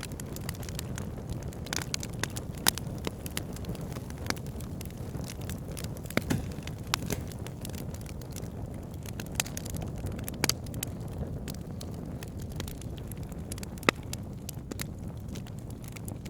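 Wood fire burning, with a steady low rush of flame under irregular sharp crackles and pops of the burning wood; a few pops stand out louder than the rest.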